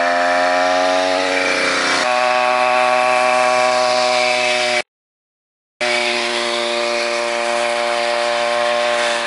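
Small gasoline engine of a motorized bicycle running at a steady speed with an even, buzzy tone. It cuts out completely for about a second midway, then resumes.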